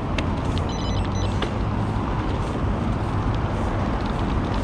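Steady low wind rumble on a bike-mounted action camera's microphone while cycling along a road, with road traffic noise and a few faint clicks.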